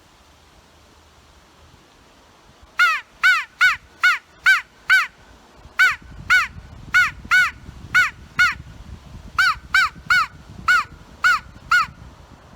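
Hand-blown DIY crow call giving three quick runs of six or seven loud caws, each caw rising and falling in pitch, starting about three seconds in. It is a clean crow imitation that lacks the rasp of a real crow's call.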